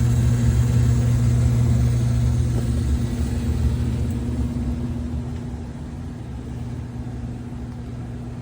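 A 1978 gas furnace running, its blower motor giving a steady low hum with a rumble underneath. The sound grows quieter from about four seconds in.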